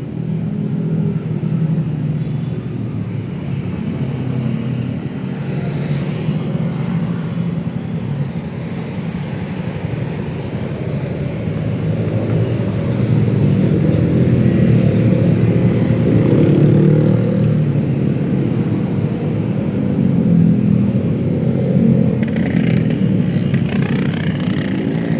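Busy city road traffic of cars and motorcycles running past in a steady engine rumble that grows louder in the middle. Short hissing noises come through about two-thirds of the way in and again near the end.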